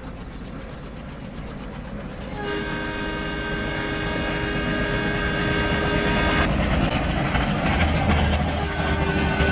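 A train approaching with a steady rumble that grows louder. About two seconds in, its horn sounds one long chord of several held notes for about four seconds. The horn cuts off, and the rumble carries on.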